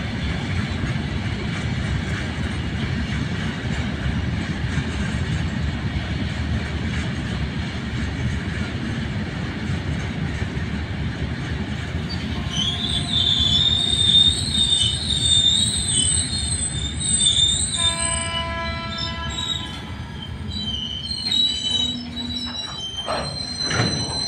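Goods train of open freight wagons rolling past on the rails with a steady low rumble. About halfway through, a high-pitched, wavering wheel squeal sets in and runs for several seconds, followed by further ringing squeals as the last wagons and the brake van go by.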